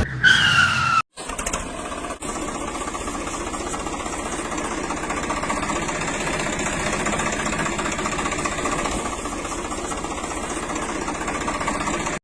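A vehicle engine running steadily and evenly, without revving. In the first second a brief falling tone sounds, then cuts off abruptly before the engine sound begins.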